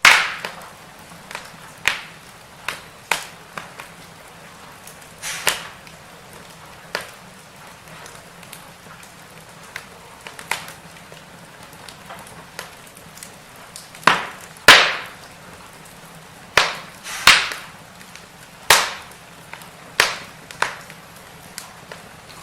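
Burning firewood crackling: irregular sharp snaps and pops over a faint steady hiss, the loudest snaps coming in a cluster past the middle.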